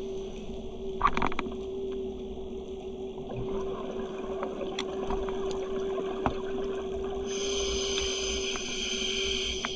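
Underwater sound on a wreck dive: a steady hum with scattered sharp clicks and a low rumble of water. A brief gush of noise comes about a second in, and a higher hiss joins about seven seconds in.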